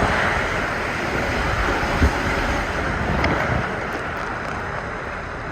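Water rushing and splashing around a rider going down a ProSlide funnel bowl water slide, with wind buffeting the microphone. There is a dull thump about two seconds in, and the rush eases off over the last couple of seconds.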